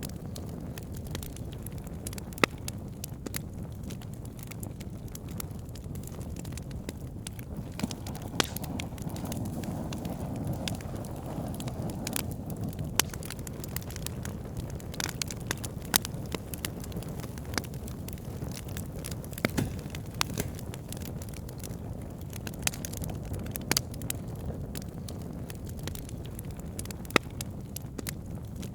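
Campfire burning: a steady low rush of flame with irregular crackles and pops throughout, a few sharper snaps standing out.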